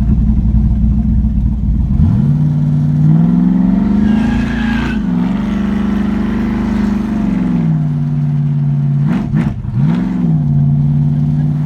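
6.0 L Vortec V8 with a TSP Tsunami camshaft running low, then revving up about two seconds in and holding high revs with a brief dip, before dropping back. Two quick rev blips come near the end, and then it settles back to a steady lower speed.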